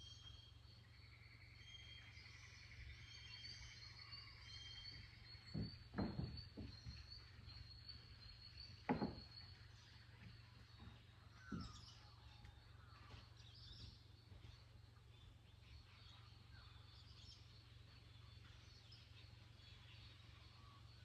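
Faint dawn birdsong: small birds chirping and trilling over a low steady hum. A few dull thumps come about six, nine and eleven seconds in.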